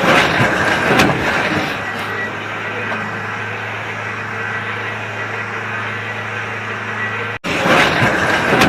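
A motor vehicle's engine running at a steady low hum, after a noisier, uneven first second or so. About seven seconds in, the sound cuts off abruptly and louder, rougher noise takes over.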